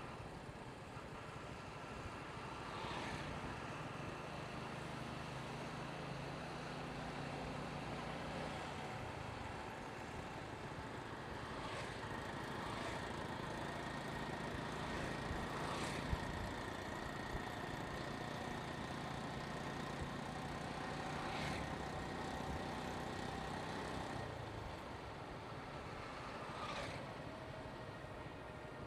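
Motorcycle engine running while riding, with steady road and traffic noise and a few short sharp sounds along the way.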